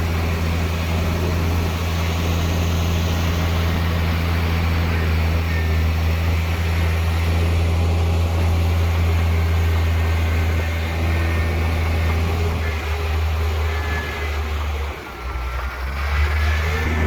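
Heavy diesel earthmoving machinery, a bulldozer or dump truck, with its engine running in a steady low drone. The drone dips briefly near the end, and faint high squeals come in over it.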